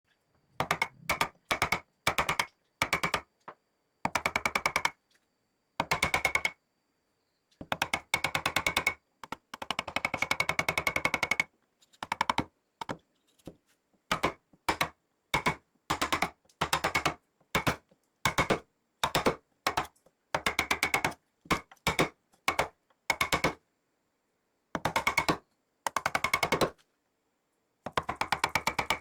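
A power carving chisel hammering into wood in short bursts of very rapid tapping, each burst stopping abruptly.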